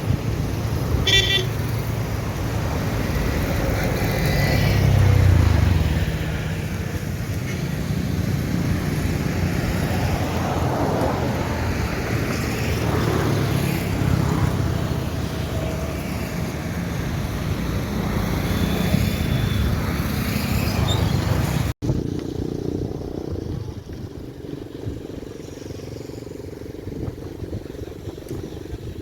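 Road traffic passing, cars and motorcycles, with a brief vehicle horn toot about a second in. After a sudden cut about two-thirds of the way through, the traffic noise is quieter.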